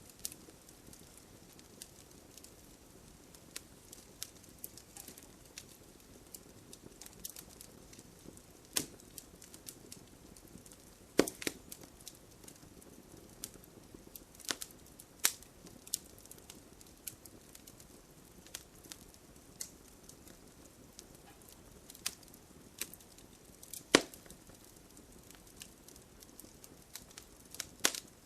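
Wood fire crackling in a fireplace: irregular sharp pops and snaps over a faint steady hiss, with a few louder pops standing out.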